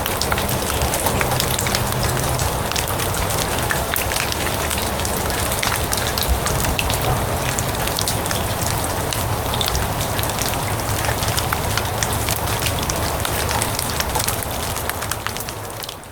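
Steady rain falling on grass, a dense patter of many small drop ticks over a low rumble, fading down near the end.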